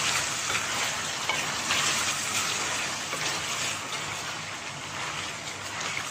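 Chicken pieces frying in oil in a pan with ginger-garlic paste and ground spices, sizzling steadily with scattered small crackles.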